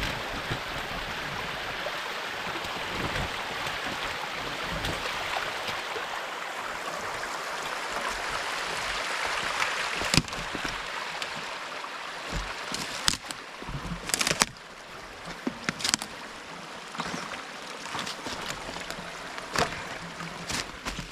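Creek water rushing down a small, gradual waterfall, a steady wash of noise. From about halfway through, sharp scattered knocks of footsteps on the rocks of the streambed cut in as the water sound eases.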